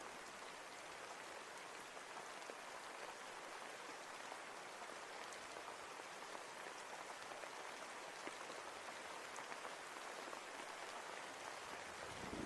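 Steady rain falling, an even hiss dotted with the ticks of single drops; a low rumble starts right at the end.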